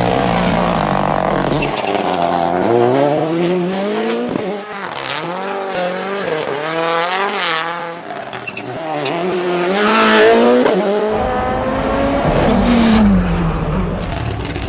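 Rally car engines revving hard, the pitch climbing and dropping again and again through gear changes, with a short loud peak about two-thirds of the way through and some tyre noise.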